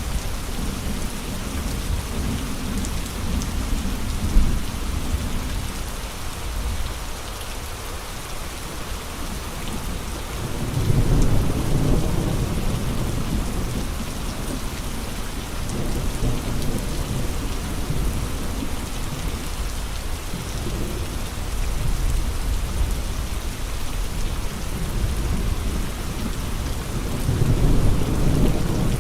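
Steady rain falling, with deep low swells a third of the way in and again near the end, and one brief sharp tap about four seconds in.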